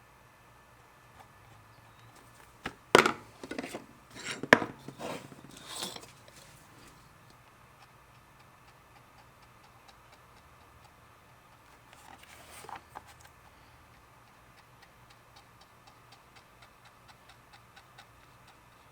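Leatherworking bench sounds: a quick run of sharp knocks and scraping strokes about three seconds in, and a shorter scrape near the middle. A faint, even ticking runs beneath them.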